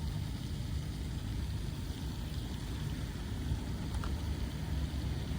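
Steady low rumble of gusty wind on the microphone ahead of an approaching storm.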